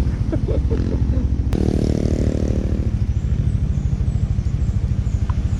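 Motorcycle engine running while riding, with a steady pulsing rumble. A sharp click comes about one and a half seconds in, after which the engine tone is stronger for a second or so before settling back.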